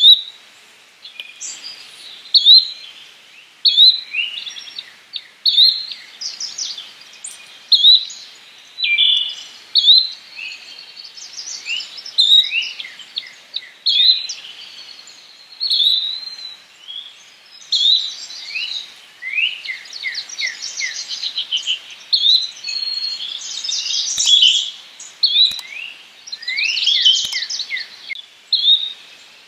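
Yellow-bellied flycatcher calling, a short high note repeated about once every second and a quarter, with other bird chirps and quick falling note series between the calls.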